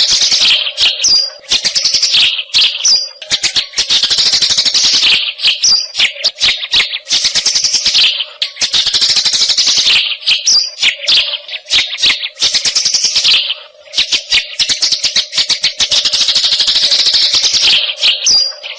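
Eurasian tree sparrow chattering loudly: fast runs of sharp chirps in bouts about every two and a half seconds, over a faint steady hum.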